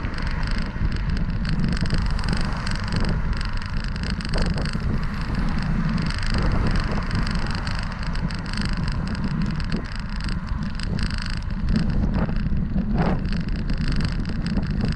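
Wind buffeting a camera microphone on a moving bicycle: a steady low rumble with a hiss on top.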